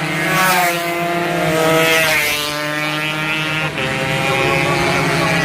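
Several two-stroke racing motorcycles running at high revs, their engine notes rising and falling as the bikes race.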